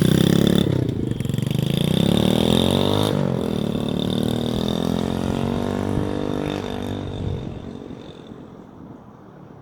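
Single-cylinder four-stroke engine of a 125cc pit bike pulling away under throttle and climbing through its gears. The pitch rises, drops at a shift about a second in, rises again and drops at a second shift near three seconds, then runs lower and fades toward the end.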